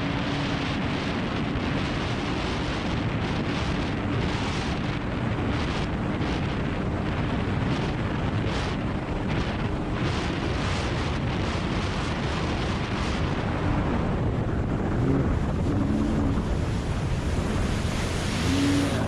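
Wind buffeting the microphone and water rushing past a Sea-Doo GTX Pro 130 jet ski running flat out at full throttle. Its Rotax engine is a faint steady drone under the rush, clearest at the start.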